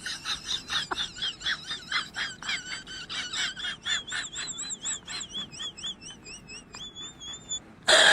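A small bird calling in a rapid series of high chirps, about five or six a second. Near the end it turns to a few longer warbling notes, then stops.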